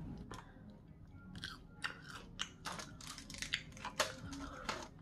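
Close-up chewing of crispy fried chicken tenders and curly fries, with irregular crunches a few times a second.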